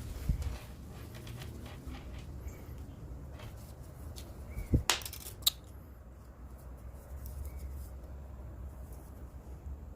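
Scattered light clicks and knocks of hand tools and metal parts being handled during engine work, with two sharper knocks about five seconds in.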